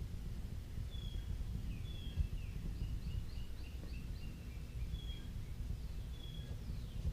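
Wild birds chirping: short high whistled notes repeat every second or so, with a quick run of chirps about three seconds in, over a steady low rumble.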